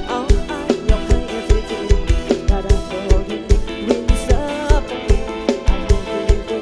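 Live band dance music: a kick drum on a steady, fast beat, about two and a half thumps a second, under a melody line that slides up and down in pitch.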